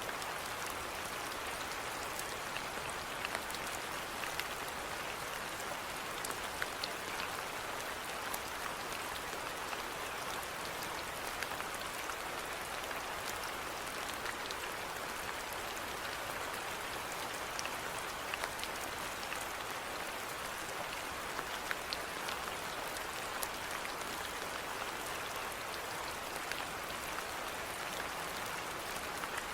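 Steady rainfall with many small drops pattering on surfaces, an even hiss with scattered sharp drop ticks.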